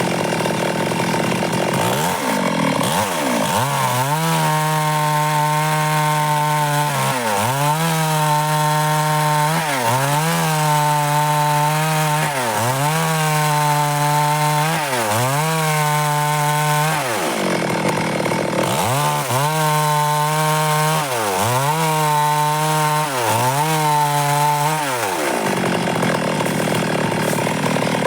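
Stihl MS 382 two-stroke chainsaw running at high revs, cutting dry wood. Its pitch drops sharply and recovers about every two to three seconds.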